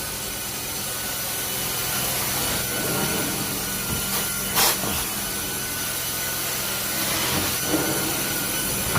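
Carpet-cleaning machine running steadily while its head is worked over carpet, with a rough rubbing, scraping sound and one brief louder sweep about halfway through.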